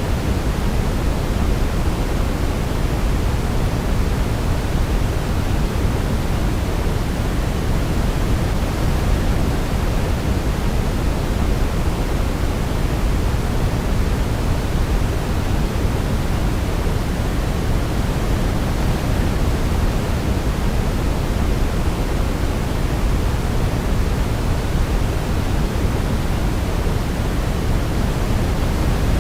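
Steady sleep-aid noise, the kind sold as white noise for babies, with more weight in the deep end than the hiss on top; even and unchanging, with no melody heard over it.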